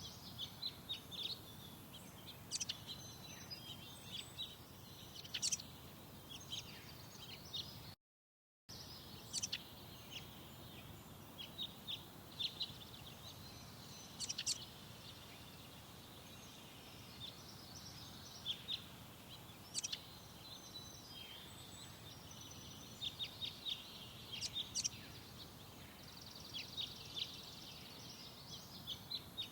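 Small birds chirping and twittering, with many short high calls in quick clusters over faint steady background noise. The sound cuts out completely for under a second about eight seconds in.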